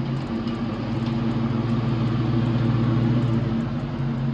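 Dodge Charger Scat Pack's 6.4-litre 392 Hemi V8 idling steadily through its exhaust. From just after the start until about three and a half seconds in, the idle note drops slightly in pitch and grows a little louder, then settles back.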